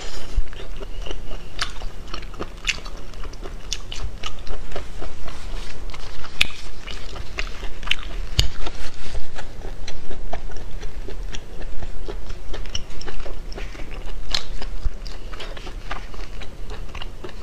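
Close-miked mukbang eating: a person biting and chewing crunchy food, with irregular sharp crunches throughout.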